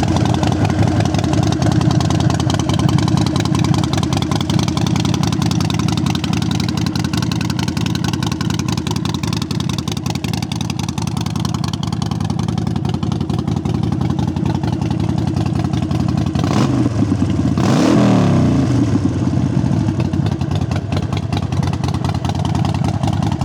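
2012 Harley-Davidson Sportster 72's 1200cc air-cooled V-twin running through Vance & Hines exhausts, mostly idling steadily, with a brief rev up and back down a little over two thirds of the way through.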